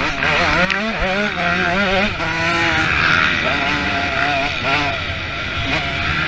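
Motocross motorcycle engines revving up and down over the track, several bikes overlapping, their pitch wavering quickly and continuously.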